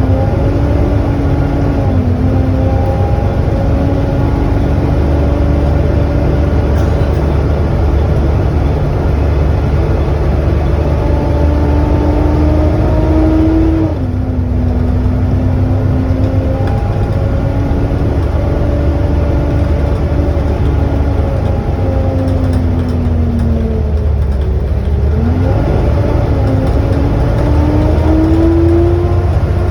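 Volvo B7TL double-decker bus running from on board, its engine and drivetrain giving the loud whine that earns it the name "hoover" over a steady low rumble. The whine climbs in pitch as the bus pulls away, drops suddenly about halfway through as it changes gear, sinks for a few seconds as it slows, then rises again as it picks up speed.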